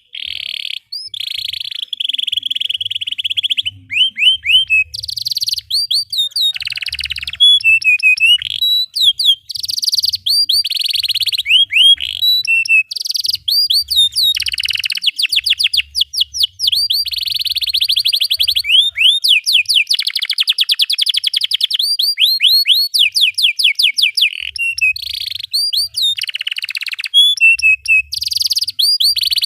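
Domestic canary singing a long, nearly unbroken song of fast rolled trills and rapid runs of repeated chirps, broken up by sweeping whistled notes.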